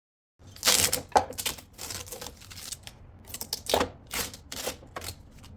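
Work on a leaded stained glass panel: a quick, irregular run of sharp scraping and clicking strokes, about a dozen over five seconds, starting suddenly about half a second in.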